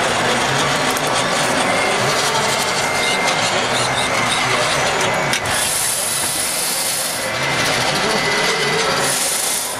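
Radio-controlled model trucks and machinery running: a steady mechanical whir and rattle, with two bursts of high hiss, one about five and a half seconds in and one near the end.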